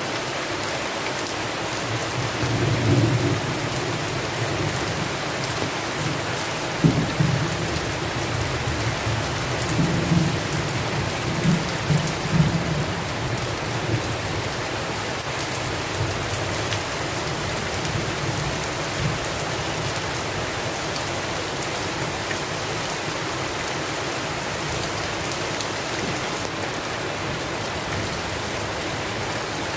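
Steady rain with thunder rumbling several times in the first half: one low roll about three seconds in, then a string of rumbles and cracks between about seven and thirteen seconds. After that it is only the rain.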